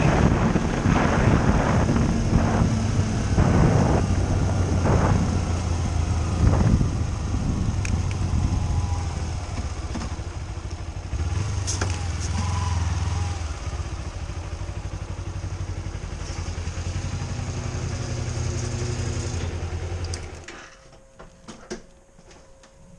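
A vehicle engine running steadily with wind noise, which stops about twenty seconds in, leaving near quiet with a few small clicks.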